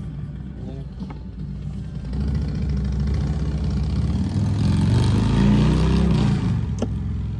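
A motor vehicle's engine running, growing louder to a peak about five to six seconds in and then fading.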